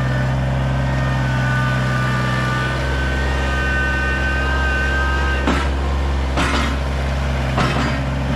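Kubota BX compact tractor's diesel engine running steadily under work, with a high whine that holds and shifts in pitch through the first half. Three knocks come in the second half as the loader works the compost pile.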